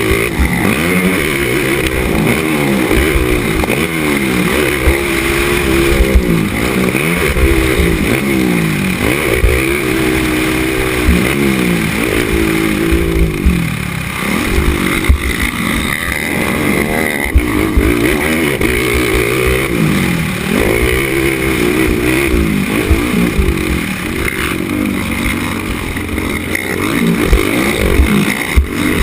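Race ATV engine revving up and falling back over and over, climbing in pitch and dropping as the quad accelerates, shifts and slows around the track, with frequent low thumps.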